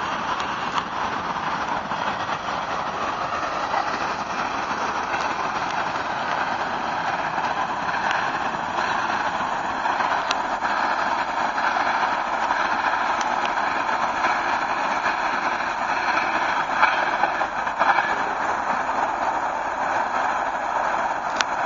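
Freight train cars rolling past on the rails: a steady rumble of wheels with scattered clicks.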